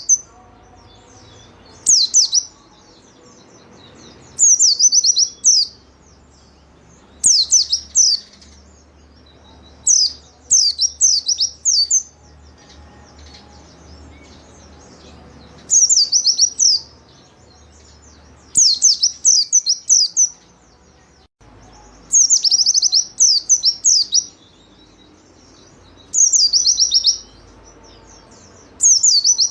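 White-eye (pleci) singing vigorously: short phrases of rapid, high, down-slurred notes, each about a second long, repeated every two to three seconds.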